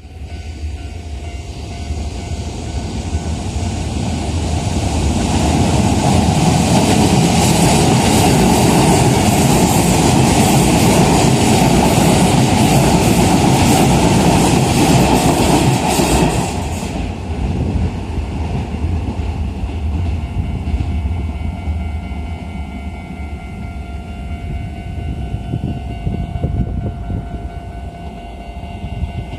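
Hokuso Railway 7300-series electric commuter train passing over a level crossing, wheels clattering on the rails: the noise builds for several seconds, stays loud for about ten seconds, then drops off abruptly. The crossing's warning bell rings steadily throughout.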